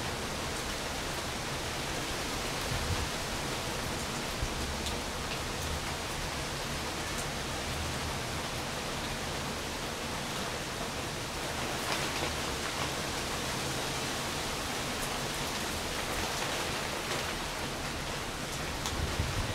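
Steady rain falling, an even hiss with a few sharper drips now and then.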